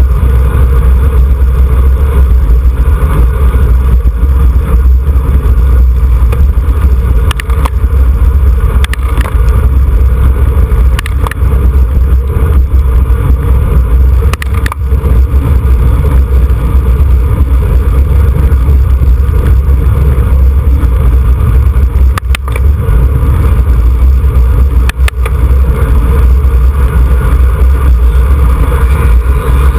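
Wind buffeting the microphone of a camera riding on a racing bicycle at speed: a loud, steady low rumble, with a few sharp clicks now and then.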